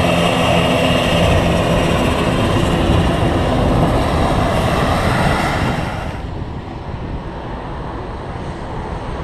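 Helicopter engine and rotor running close by, a loud steady noise with a droning hum; about six seconds in it turns quieter and duller.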